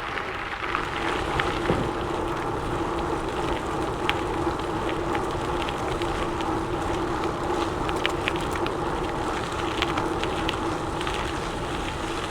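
Gravel bike tyres rolling along a gravel trail: a steady hum under a crunching hiss, with scattered sharp clicks of grit and small stones.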